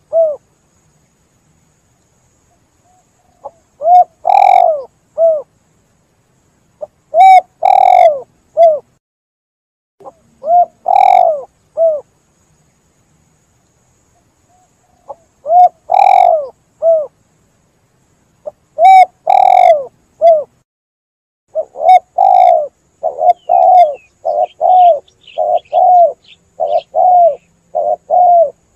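Spotted dove cooing: short phrases of a few coos repeated every three or four seconds with silence between. In the last several seconds the coos come in a faster, almost continuous run, with faint high chirping above them.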